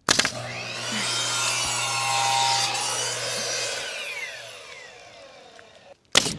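A 10-inch DeWalt job site table saw starts up and its blade cuts through a wooden board, then the motor is switched off and the blade winds down with a falling whine. A short sharp knock comes just before the end.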